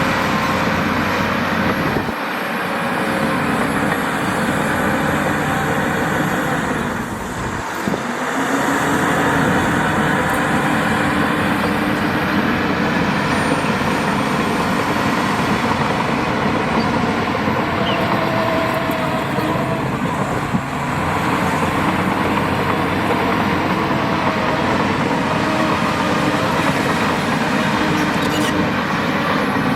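Diesel engines of heavy earthmoving machinery running continuously. The engine note dips and then rises again about eight seconds in.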